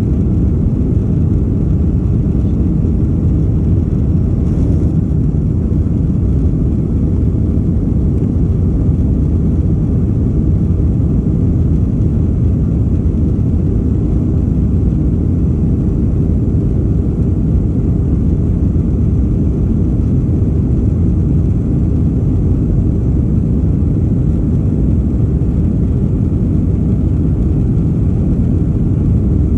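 Jet engine and airflow noise heard inside an airliner cabin during the climb after takeoff: a steady, deep rumble with no changes.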